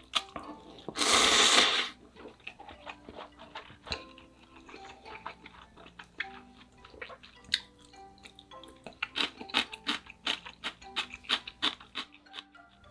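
Close-miked eating of noodle soup with soft tofu: a loud slurp about a second in, then a run of wet chewing clicks and mouth smacks. Soft background music with held notes plays underneath.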